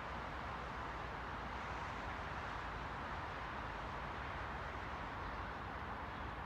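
Steady, even hiss of white noise, unchanging throughout, fullest in the middle range and softer in the highs.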